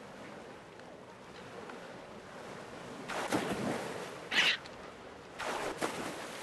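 Water sounds: a steady wash of noise, then rushing, splash-like bursts about three seconds in and again past five seconds, with a short, sharper burst between them.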